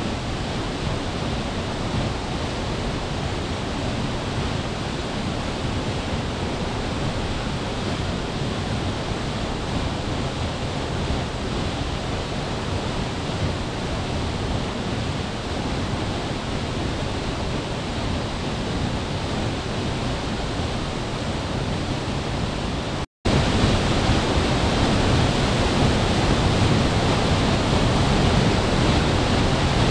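Waterfall rushing: a steady, even roar of falling water. About three-quarters of the way through it cuts out for an instant and comes back louder.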